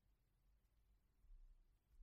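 Near silence: faint low background hum.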